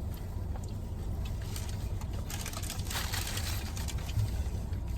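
Sandwich wrapper paper crinkling and rustling in irregular bursts, heaviest in the middle, over the steady low hum of a car's interior, with a soft bump near the end.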